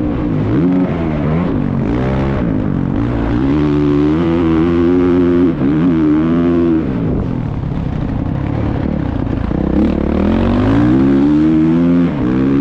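Motocross bike engine running hard, its pitch climbing and dropping again and again as the throttle opens and closes.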